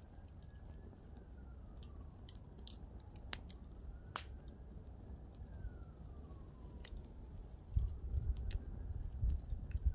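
Wood campfire crackling, with scattered sharp pops, the loudest about four seconds in. A faint siren wails slowly up and down in the background, and a low rumble comes in near the end.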